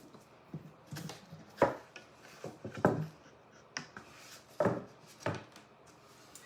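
Irregular short knocks and taps of small craft supplies being handled and set down on a work table, about eight in all, the loudest near 1.6 and 2.9 seconds in.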